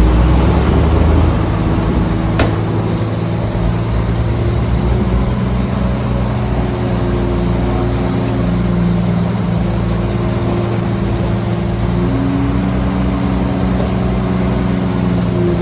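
Heavy diesel engine of earthmoving machinery running steadily at low revs. A deeper drone underneath drops away about a second in, and there is one short click about two and a half seconds in.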